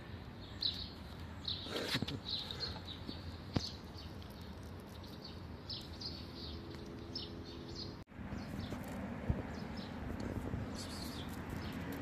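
Small birds chirping, short high chirps scattered throughout over a steady outdoor background, with a few light sharp taps in the first four seconds; the sound cuts out for an instant about eight seconds in.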